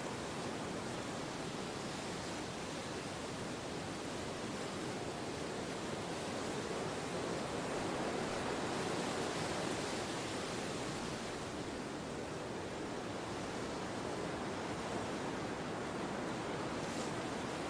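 Steady wind, an even rushing with no gusts or clicks, swelling a little about halfway through and easing again.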